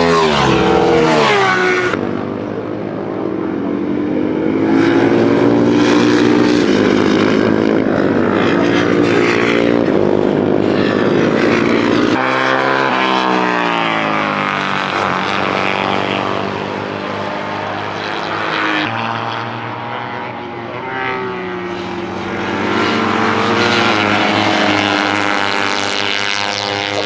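Classic racing motorcycles at full throttle, engine notes rising in pitch through the gears with drops at each shift, and falling in pitch as bikes pass. The sound changes abruptly a few times, as one bike or group gives way to another.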